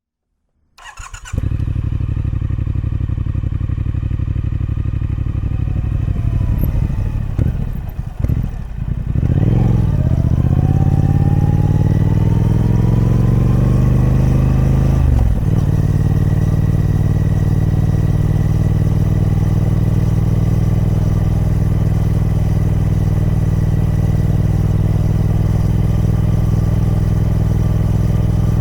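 Triumph Speed Twin 1200's 1200cc parallel-twin engine on its stock exhaust, coming in about a second in and idling. Around the middle the revs dip, then climb slowly for several seconds before dropping back sharply to a steady idle.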